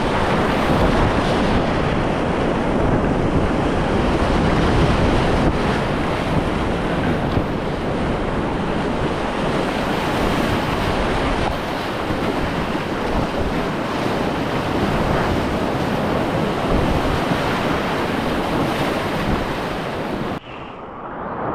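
Whitewater of Shohola Creek rushing, a steady loud wash of water noise. It drops away abruptly near the end.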